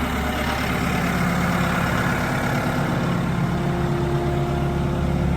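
Tractor engine running steadily at low revs, a constant engine hum with a steady pitch.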